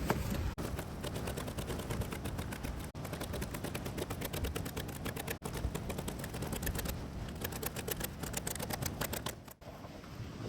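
Dense, rapid, irregular crackling clicks, broken by a few abrupt cuts.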